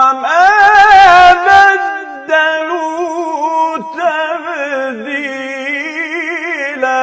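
A male reciter chanting the Quran in maqam Kurd, drawing out long melismatic notes with a wavering, ornamented pitch. The line pauses briefly about two seconds in, then carries on.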